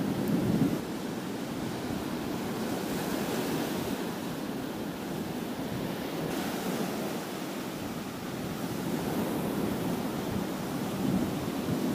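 Ocean surf washing onto a beach, a steady rushing that swells and eases, with wind buffeting the microphone.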